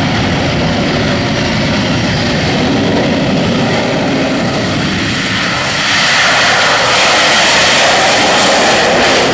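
Jet aircraft engine noise from a flying display pass, a loud, rushing sound that grows louder and harsher about six seconds in.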